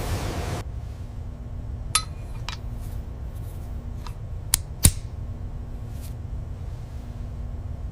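Factory ambience: a low steady machinery hum with a faint held tone, and several sharp metallic clinks and taps, the loudest about five seconds in. A hiss cuts off about half a second in.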